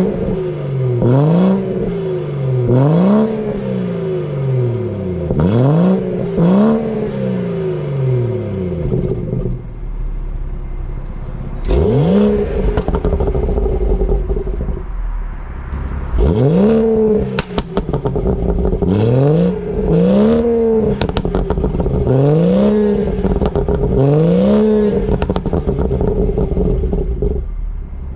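BMW 340i's B58 turbocharged straight-six, decatted and tuned with a pops-and-bangs map, blipped through about a dozen short, sharp revs. Each rev falls back to idle with crackles and pops on the overrun, with a pause of about two seconds near the middle.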